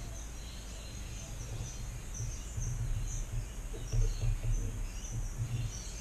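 Quiet background noise with faint, high bird chirps repeating throughout, over a low, uneven rumble that grows from about two seconds in.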